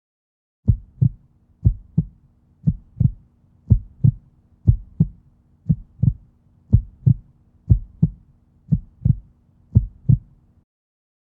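Heartbeat sound effect: a steady double 'lub-dub' thump repeating about once a second, about ten beats in all, over a faint low hum.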